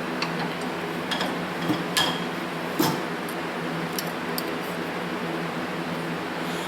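A few light clicks and clinks of small metal parts being handled, over a steady hum from a shop fan.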